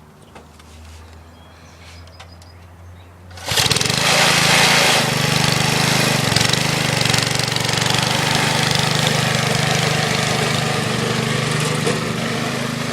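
Small 3-horsepower Briggs & Stratton single-cylinder engine on a Copar Panzer garden tractor starting up suddenly about three and a half seconds in, then running steadily.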